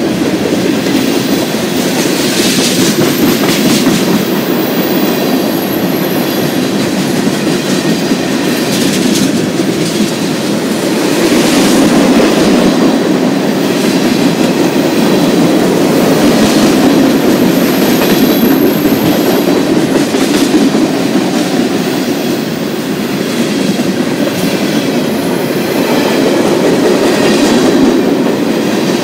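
Train cars rolling past on the track, a steady loud rumble of wheels on rail with occasional clicks over rail joints. A faint high squeal from the wheels comes in a couple of times.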